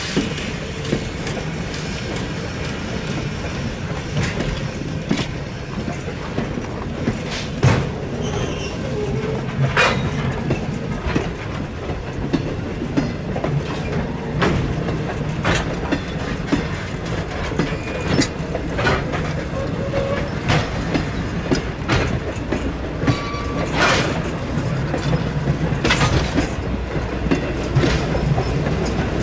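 Train rolling along the track: a steady rumble with sharp wheel clicks over the rail joints at irregular intervals.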